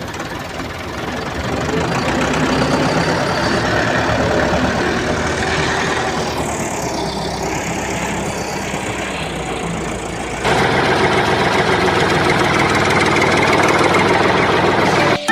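An engine-like machine sound running steadily, with an abrupt change in level and character about ten seconds in.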